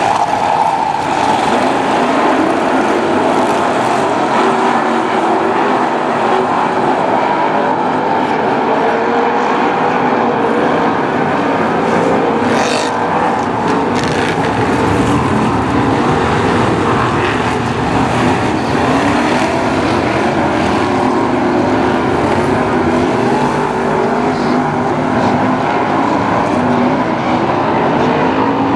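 A pack of BriSCA F1 stock cars' V8 engines running hard together, many engine notes overlapping and rising and falling.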